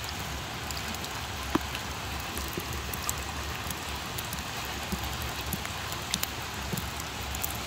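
Steady rain falling on wet ground and into a metal pot of water, with scattered sharp ticks.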